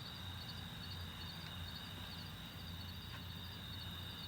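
Crickets chirping at night: a faint, steady high trill with a low hum underneath.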